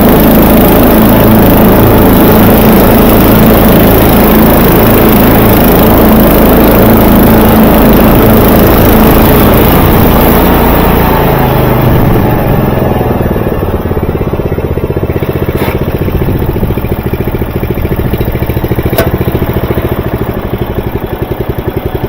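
Vintage Murray 11/36 riding lawnmower's engine running steadily while it mows. About ten seconds in it turns quieter and settles into an even pulsing run, with two sharp clicks later on.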